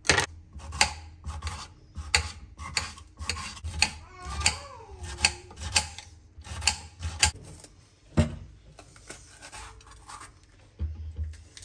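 Repeated rasping, scraping strokes of hand food preparation, about two to three a second, with a brief squeaky glide about four and a half seconds in.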